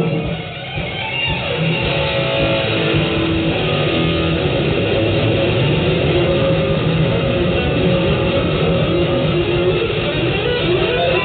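Live band music led by electric guitar, with strumming and bass, recorded on a mobile phone. The sound is dull, with no high end, and dips briefly in loudness just after the start before running on steadily.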